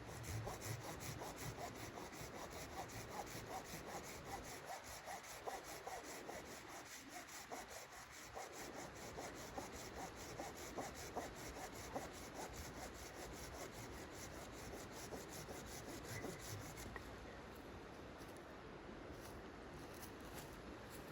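A saw cutting through wood with steady back-and-forth strokes, stopping about three quarters of the way through.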